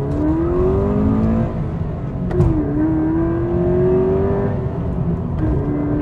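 Car engine heard from inside the cabin, accelerating with a rising pitch. The pitch drops sharply twice, with a click at the first drop about two and a half seconds in and the second drop near the end, as the car shifts up through the gears.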